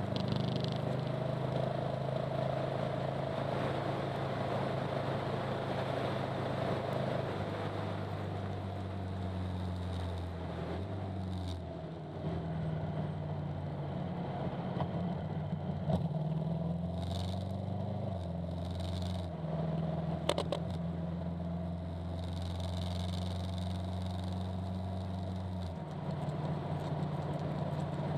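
Honda NC700S DCT's parallel-twin engine running under way, with wind and road noise; its note shifts in steps several times as the speed changes.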